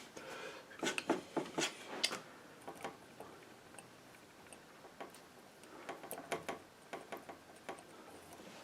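Painting knife clicking and scraping against the painting surface and palette: short taps and scrapes in clusters about one to two seconds in and again from about six to eight seconds in.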